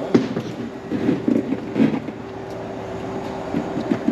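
Small water pump running with a steady hum, not yet primed, with irregular knocks and clatter in the first couple of seconds.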